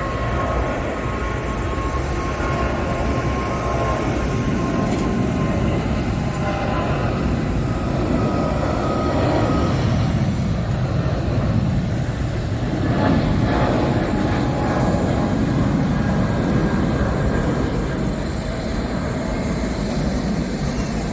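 Steady rumble of an airliner's jet engines with faint whining tones, swelling slightly about halfway through.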